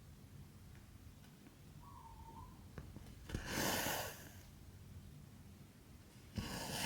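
Cotton embroidery thread pulled through 14-count cross-stitch fabric twice, about three seconds apart. Each pull is a short swish of under a second that begins with a tick.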